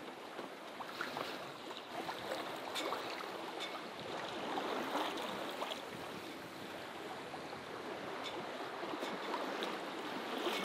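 Water rushing and washing along a sailboat's hull under way, a steady hiss with a few light ticks.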